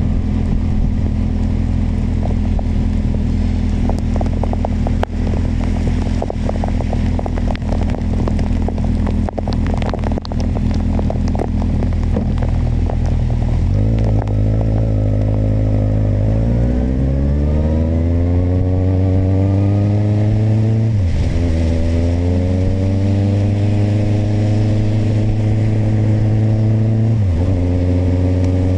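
Kawasaki motorcycle engine running steadily at low revs with scattered sharp taps and knocks, then pulling away about halfway through, revs climbing, and shifting up twice as it accelerates.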